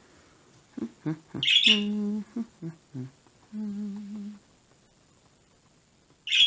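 A woman humming a few short low notes to herself, two of them held briefly. Two brief sharp hissy sounds come about a second and a half in and again near the end.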